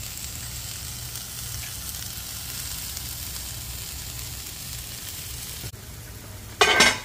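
Sliced bitter melon (karela) and tomato sizzling steadily in a frying pan. After a break near the end, a brief loud metallic clank as the aluminium lid is lifted off a cooking pot.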